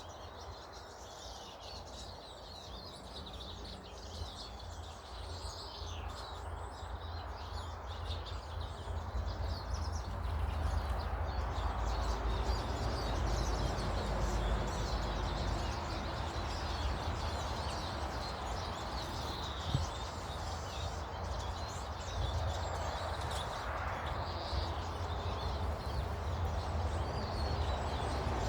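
Small garden birds chirping and twittering over a steady low rumble, the background noise growing louder about ten seconds in.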